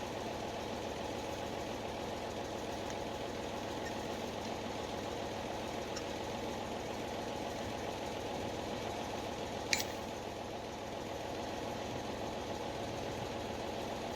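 Tractor engine idling steadily, with a single sharp knock about ten seconds in.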